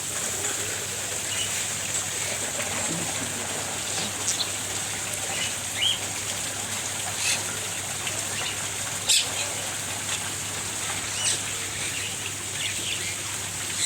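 Birds chirping with short scattered calls over a steady high-pitched hiss, with a few sharp snaps.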